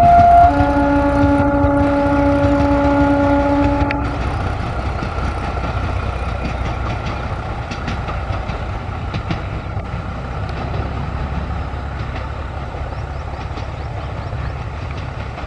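A narrow-gauge train's locomotive horn sounds a steady chord, with a short break and a brief higher note right at the start, and stops about four seconds in. The train then keeps running with a low rumble and wheel clatter on the track, slowly fading as it pulls away.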